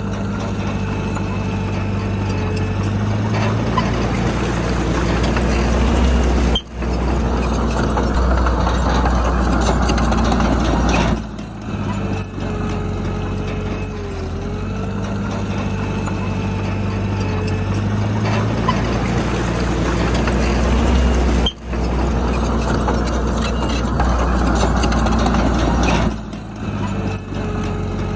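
Heavy diesel earthmoving machinery running under load, the engine swelling and easing. The same pattern repeats about every 15 seconds, with a brief sudden dropout twice.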